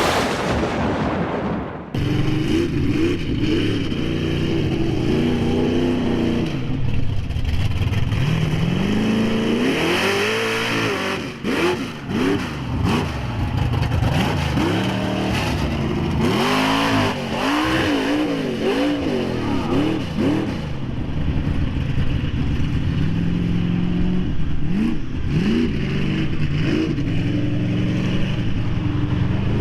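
Punisher mega truck's engine revving hard again and again, its pitch climbing and falling in quick swoops over a steady drone.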